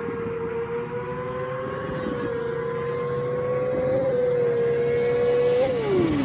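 Motorcycle engine held at high, steady revs, growing louder, then the revs drop sharply near the end.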